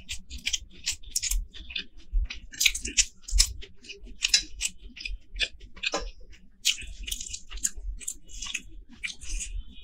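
Close-miked eating sounds: chewing, with a quick irregular run of small wet clicks and smacks, and fingers working rice and curry on a plate.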